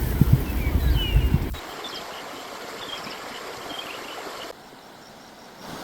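Birds chirping in short falling notes over a loud low rumble. After about a second and a half the rumble cuts out, leaving a quieter outdoor hiss with scattered faint chirps, and it drops quieter still near the end.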